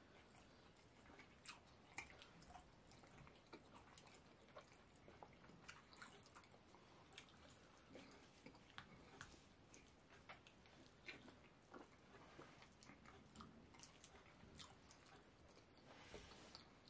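Faint eating sounds of fufu and slimy okra soup eaten by hand: scattered soft clicks and smacks of chewing and of fingers working the food.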